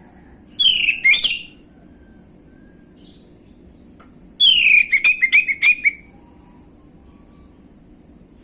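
Orange-headed thrush singing: two loud phrases of high whistled notes sliding downward, the second, about four seconds in, breaking into a quick run of short repeated notes.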